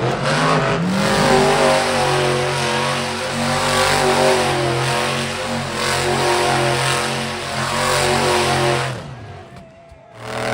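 Monster truck engine running at high revs: the note climbs in the first second, holds loud with a slightly wavering pitch, then drops away about nine seconds in.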